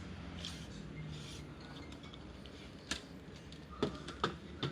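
A few sharp clicks and knocks from printer drum cartridge parts being handled: one about three seconds in, then three more close together near the end, over a steady low hum.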